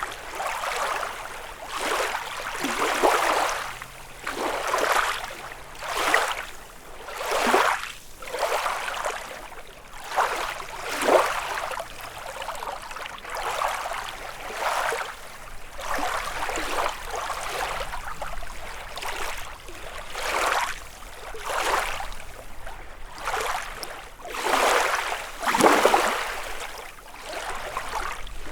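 Small lake waves lapping and breaking on the shore, one after another about every one and a half seconds, some swells louder than others.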